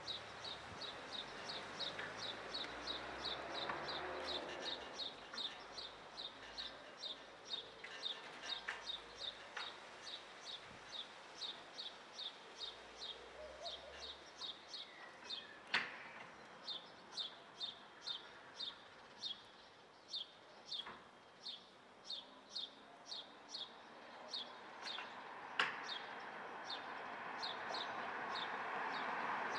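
A bird chirps over and over, one short high chirp about twice a second. Two sharp knocks, one about halfway through and one near the end, come from the sliding glass balcony panels being pushed along their track into place.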